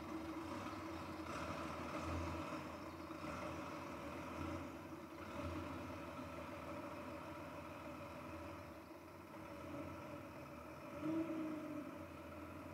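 Maserati Mistral Spyder's straight-six engine running at idle as the car rolls slowly up and stops, swelling briefly near the end.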